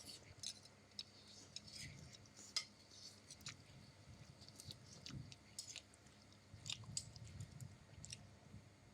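Quiet, close-up chewing: soft, irregular mouth clicks and smacks of someone eating.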